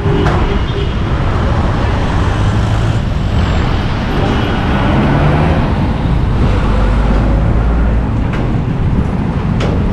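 Busy road traffic: car and bus engines running and tyres passing close by, with a deep engine rumble swelling in the second half as a heavy vehicle goes past. A couple of sharp clicks come near the end.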